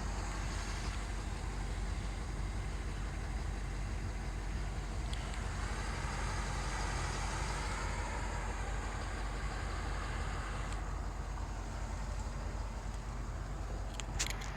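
Steady low idle of a 2018 Ford F-250 Super Duty's 6.7-litre Power Stroke V8 turbo diesel, heard from inside the cab, with a few light clicks near the end.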